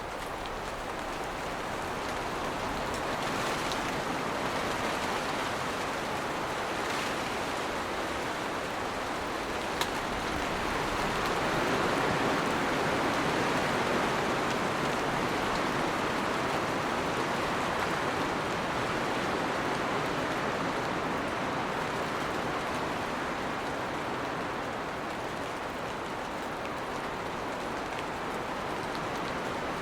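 Steady rain shower, a dense even hiss that swells a little around twelve seconds in, with a single sharp tick near ten seconds.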